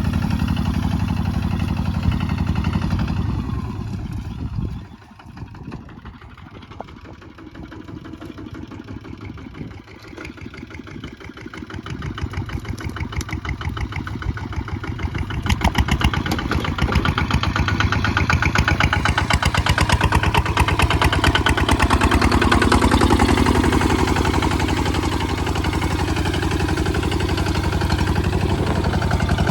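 Kubota ZT155 single-cylinder diesel engine running. About four seconds in it drops off to a slow, quieter idle, then from about twelve seconds it picks up again and runs loud with a steady, fast beat.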